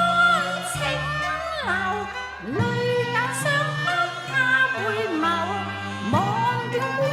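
Cantonese opera music: a singer's sliding, ornamented melody over a Chinese instrumental accompaniment with bowed strings.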